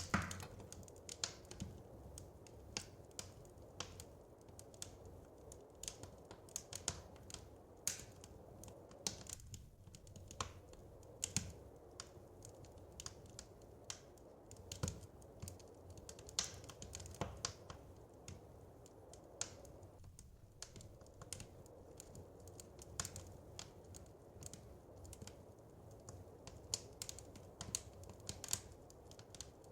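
Wood fire crackling: irregular sharp pops and snaps, a few stronger ones standing out, over a steady low rumble.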